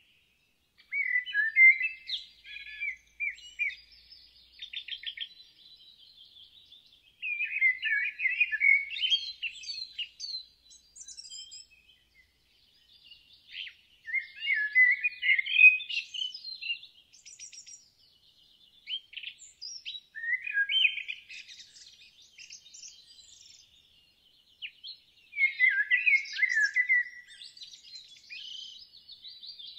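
Songbird singing: a loud warbling phrase repeated about every six seconds, five times, with softer high chirps and trills between phrases.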